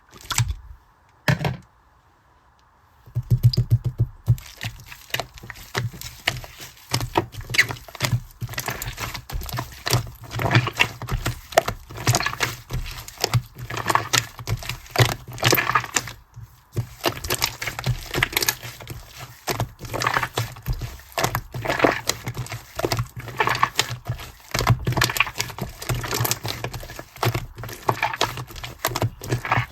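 Slime being kneaded and pressed with shaving foam mixed in, giving a dense run of sticky crackling and popping clicks. Two short sharp sounds come first, then a brief pause before the crackling starts about three seconds in.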